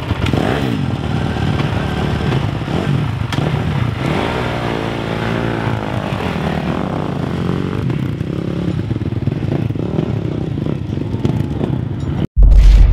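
Motocross bike engine revving as the bike is ridden, its pitch rising and falling again and again with throttle and gear changes. The sound cuts off abruptly near the end.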